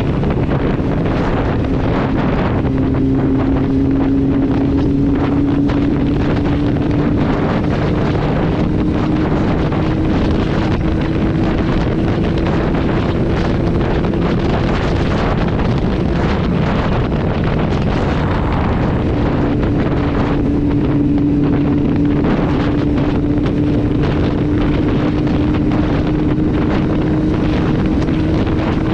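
Kawasaki Z750's inline-four running through an Akrapovic exhaust with the dB killer removed, droning steadily at highway cruising speed. Its note climbs slowly in pitch over the first half. Heavy wind noise on the microphone runs throughout.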